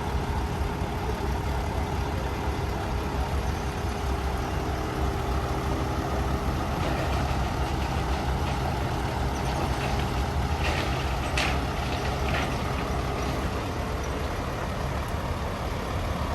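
Heavy diesel truck engine running steadily, with a few short sharp sounds about two-thirds of the way through.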